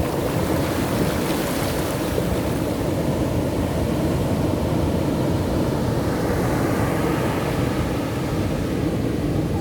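Ocean surf breaking and washing up the beach in a steady, heavy rush of waves.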